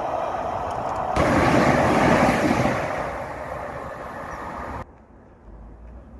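Rumble of a Network Rail train that has just passed, fading away. It swells about a second in, dies down, then stops abruptly about five seconds in, leaving faint background noise.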